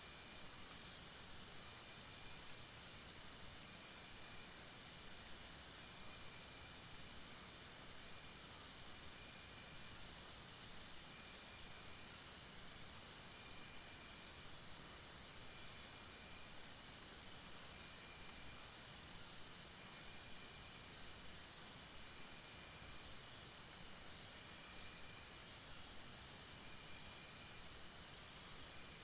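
Night-time jungle insect chorus: a steady, pulsing high trill of many insects, with a short high chirp repeating about every ten seconds and a few faint clicks.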